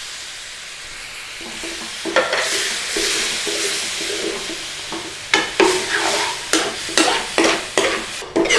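Onion, spice and tomato curry base sizzling in a hot pan, louder from about two seconds in. From about halfway, a spoon stirs it in quick scraping strokes against the pan, about two or three a second.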